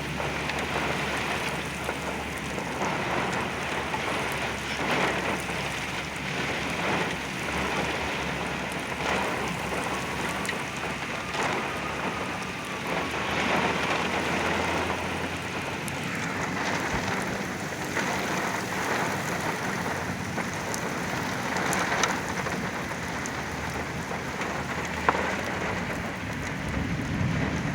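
Heavy rain pelting a vehicle in a derecho thunderstorm, in gusts that swell and ease every second or two, over a steady low hum.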